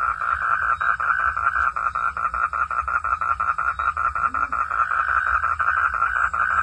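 Frogs calling in a fast, even pulsing chorus, about seven pulses a second, over a low rumble.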